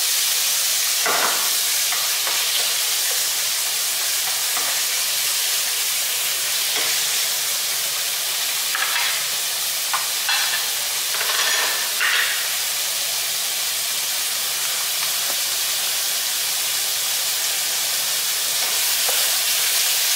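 Sliced chicken breast frying with red onion and garlic in a nonstick pan: a steady sizzle, broken by a few short scrapes of the spatula stirring about a second in and again around nine to twelve seconds in.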